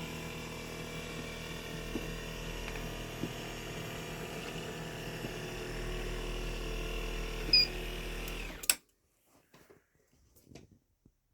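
Acorn Slimline straight stairlift's drive motor running steadily as the carriage travels along the rail. It stops with a click about nine seconds in, followed by a few faint ticks.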